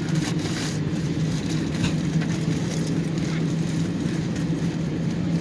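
Steady cabin hum of an Airbus A321 at the gate before engine start: the air-conditioning ventilation runs as an even rush with a low steady drone, and there are a few faint ticks in the first couple of seconds.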